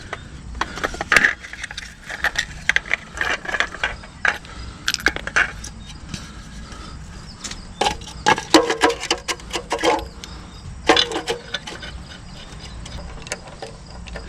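Irregular metallic clicks, clanks and knocks of tools and wheel hardware being handled as the truck's rear wheel is refitted. There are denser runs of ringing clicks about two-thirds of the way through.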